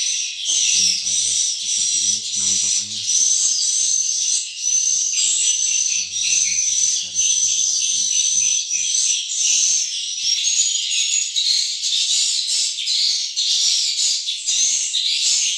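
Swiftlets twittering in a dense, continuous chatter of high chirps, with a thin high whistling tone running through much of it. A low buzz comes in twice, near the start and around the middle.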